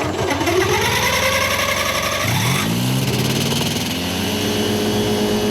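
Ultralight aircraft engine revving up, rising in pitch for about two seconds, then settling into a steady drone.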